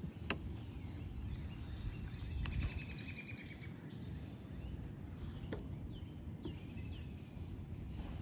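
Wild birds chirping, with a high trill and several short falling chirps, over a steady low rumble and a few sharp clicks.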